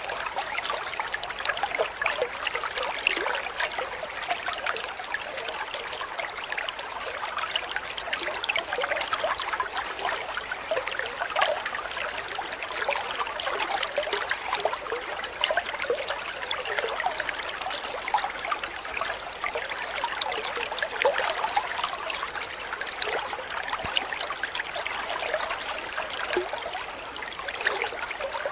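Steady trickling, burbling water, like a small stream running over stones, with a constant patter of tiny splashes.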